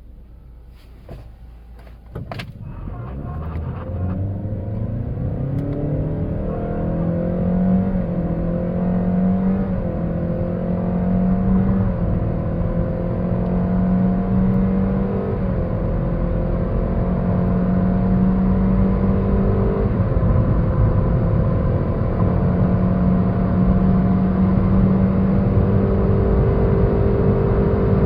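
Toyota Yaris Cross engine under hard acceleration: after a few clicks, a drone sets in about two seconds in and rises slowly in pitch and loudness, with a few small dips in pitch along the way.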